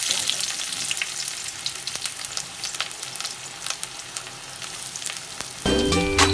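Food sizzling and crackling in hot mustard oil in a kadhai, a steady high hiss with many small pops. Background music comes in near the end.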